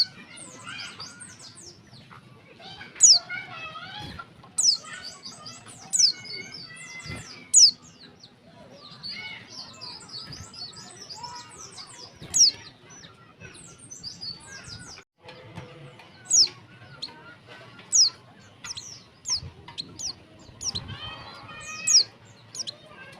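Female white-eye (pleci) calling: loud, sharp, high chirps sweeping downward, repeated every second or two, with softer quick twittering between them. It is the call used to lure male pleci into singing.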